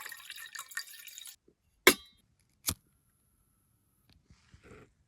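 Water pouring into a camp cooking pot, stopping a little over a second in, followed by two sharp clinks of the cooking gear being handled, the first the louder, each with a short ring.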